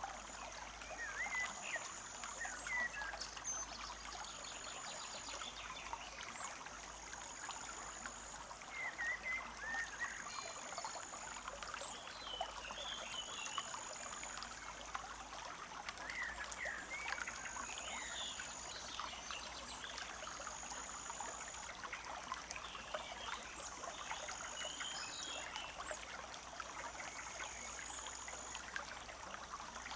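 Forest stream trickling and babbling steadily over stones, with small birds chirping now and then. A high, thin trill repeats about every two to three seconds.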